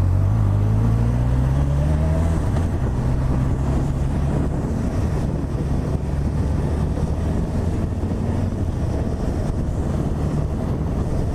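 Honda CB1000R's inline-four engine under way, its pitch rising for about the first two seconds as it accelerates, then holding steady while cruising, with wind noise on the microphone.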